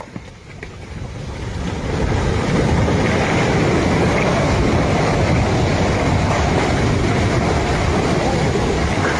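Snow avalanche rumbling, swelling over about two seconds into a steady, loud rushing rumble.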